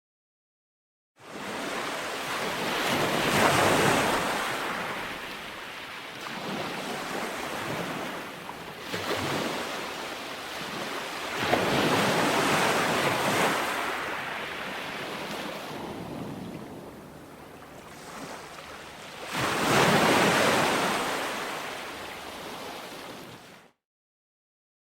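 Ocean waves breaking and washing up a shore: three swells about eight seconds apart, each rising and falling away. The sound drops to dead silence for about the first second and again near the end.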